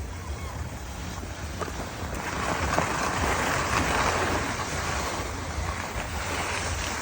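Wind rumbling on the microphone, with a rushing hiss that swells about two seconds in and eases toward the end.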